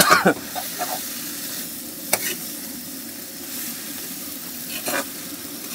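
Prawns frying in oil and masala in a metal pot, sizzling steadily while a steel spatula stirs them. The spatula scrapes and knocks against the pot a few times, loudest right at the start.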